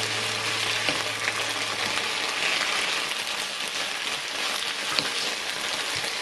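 Garlic scapes and dried shrimp sizzling steadily in hot oil in a frying pan as they are stir-fried, with a few faint clicks as the spatula turns them.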